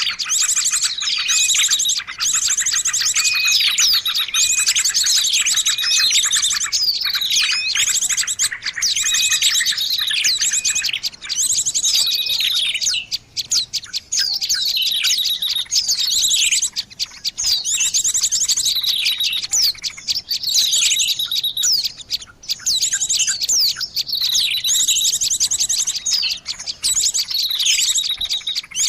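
Bird-lure recording of many small songbirds calling at once: a dense, unbroken mix of high chirps, fast trills and short falling notes, with brief lulls about a third and three-quarters of the way through.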